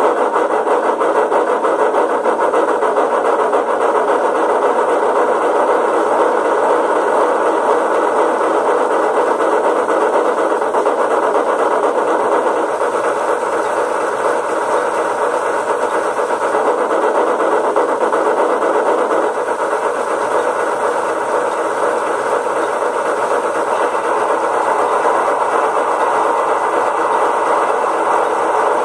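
Steam-locomotive sound from the sound decoder of a Rivarossi H0 Big Boy model locomotive, played through its small loudspeaker while the model runs on a rolling test stand. The sound is steady and continuous, with the model's own motor and wheels running on the rollers underneath.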